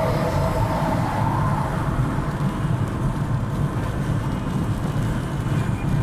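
Steady low rumble of a car driving on a rain-soaked highway: engine and tyre noise on the wet road.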